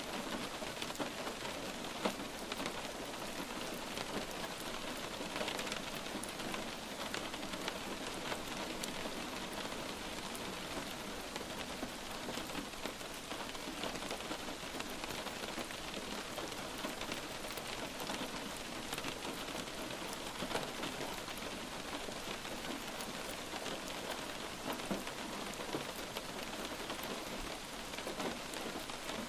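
Light rain falling steadily, an even hiss of rain with many small scattered drop ticks.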